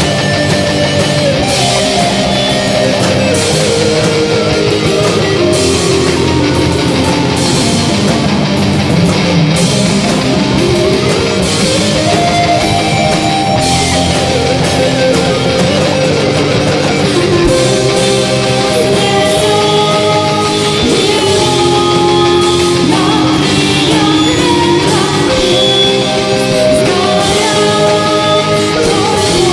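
Loud heavy rock music with electric guitar, the lead line gliding down in pitch and back up again in the first half.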